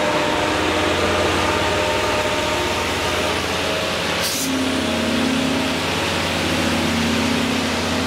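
Concrete pump truck running while it pumps concrete: a loud, steady diesel engine and pump drone, with a brief hiss about four seconds in.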